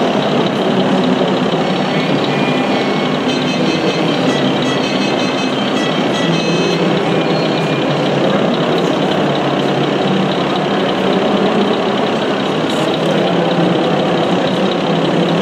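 Steady engine-like running of RC model construction trucks, with a few faint high beeps between about two and seven seconds in.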